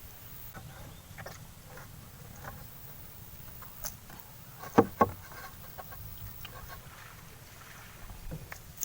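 Fishing gear being packed away: scattered clicks and handling noises, with two sharp knocks close together about five seconds in.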